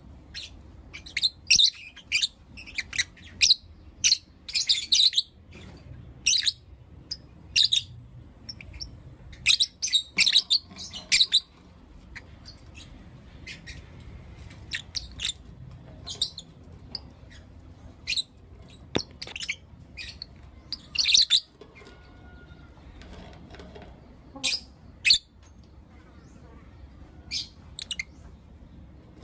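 Lovebirds chirping: short, sharp, high-pitched chirps coming in irregular clusters, with sparser stretches between them.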